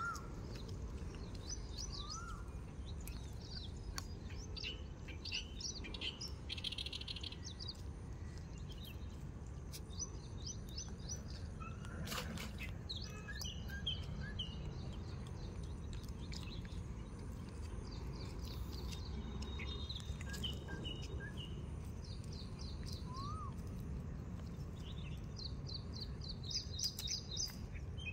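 Small birds chirping and trilling in many short repeated phrases, with a few rising-and-falling whistled calls, over a steady low rumble; a single sharp knock about twelve seconds in.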